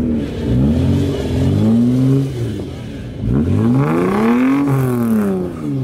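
Car engine being revved several times in quick blips, the pitch climbing and dropping each time, with the last and longest rev in the second half.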